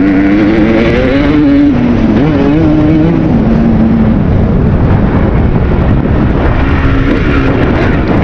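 Kawasaki KX250 single-cylinder two-stroke dirt bike engine revving up and down under throttle over a dense rushing noise. The engine note fades back about four seconds in and picks up again near the end.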